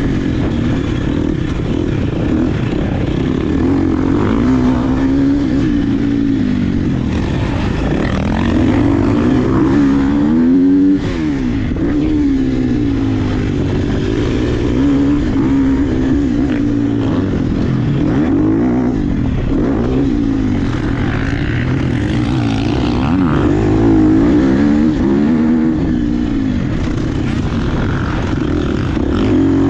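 Dirt bike engine being ridden hard, its pitch rising and falling again and again as the rider revs through the gears and backs off.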